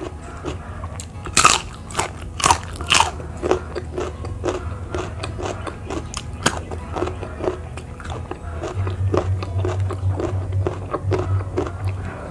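Close-up eating of crunchy raw vegetables. Three loud crisp bites come between one and three seconds in, followed by steady crunchy chewing at about two chews a second.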